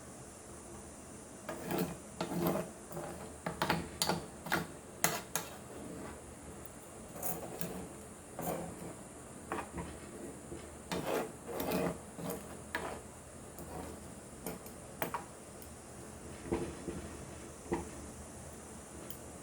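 Kitchen utensil scraping and knocking against a cooking pot in irregular strokes, busiest in the first few seconds and again about halfway through.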